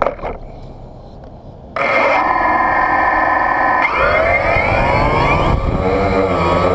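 DJI Phantom quadcopter motors and propellers, starting suddenly about two seconds in with a steady, loud whine of several tones; about two seconds later the pitch rises and then wavers up and down. A short click comes at the very start.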